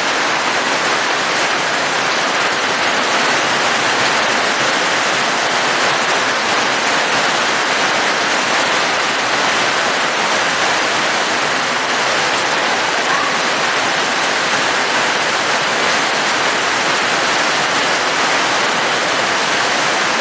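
Steady heavy rain: an even, unbroken hiss with no single drops standing out, holding the same level throughout.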